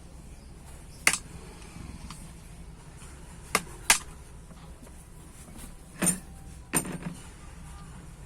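A handful of sharp metallic clicks and knocks from hand tools working on a starter motor while its two retaining screws are undone, over a low steady hum.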